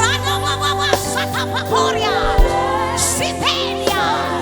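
Live gospel worship music: sustained held chords over a steady bass line, with a couple of drum hits and brief sung ad-libs between lines.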